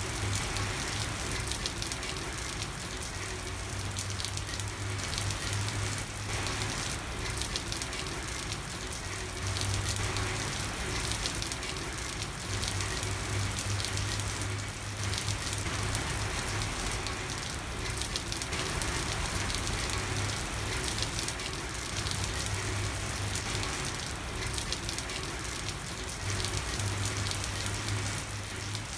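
Steady rain falling on a street, a dense even patter, with a low hum that comes and goes underneath.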